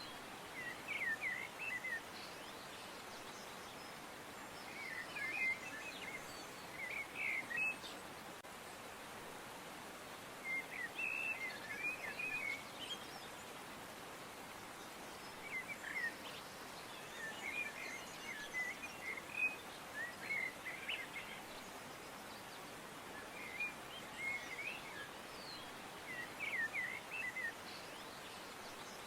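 Small birds chirping in short, quick clusters every few seconds over a steady outdoor hiss.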